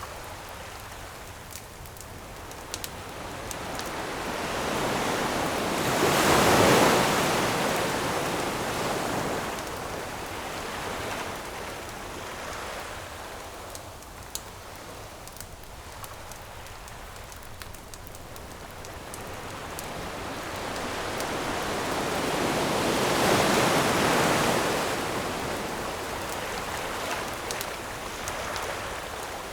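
Ocean waves breaking on a shore, two larger waves swelling and washing in about seven seconds in and again near the end. Small crackles and pops from a wood campfire come through between them.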